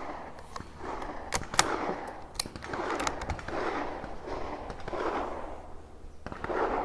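Several sharp gunshot cracks and clicks at a shooting range, the loudest about a second and a half in, over a steady low rumble.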